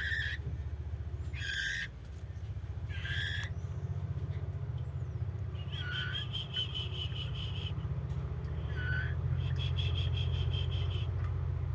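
Caged songbirds calling in an aviary: short calls every second or two, and a couple of quick trills of rapid repeated notes, over a steady low hum.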